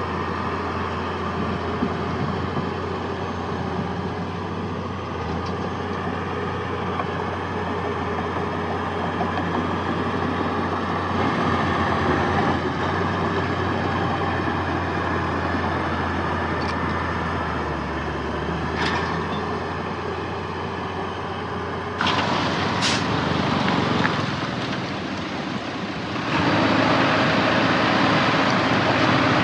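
Heavy diesel earthmoving machinery, dump truck and bulldozer engines, running steadily with a low drone. The engine noise grows louder about three quarters of the way through, with a brief high hiss just after, and gets louder again near the end.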